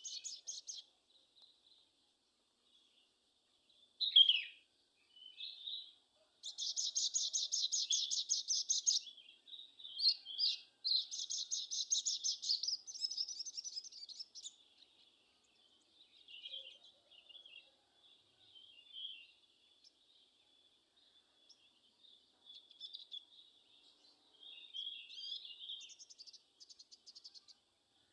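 Sogon bird song played as a lure call: high, rapid trills lasting two to three seconds each, with softer scattered chirps between them.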